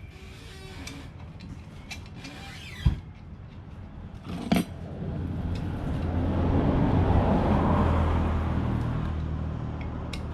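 A motor vehicle's engine passing by, swelling for a few seconds and then fading, after a few clicks and one sharp knock.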